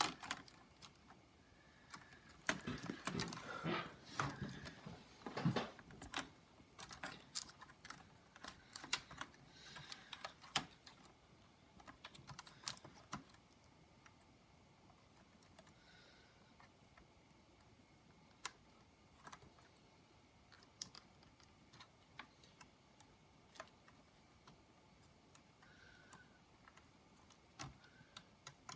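Scattered clicks and taps on an HP Pavilion dv6000 laptop's plastic case and keyboard, like keys being pressed, busy for the first few seconds and then sparse.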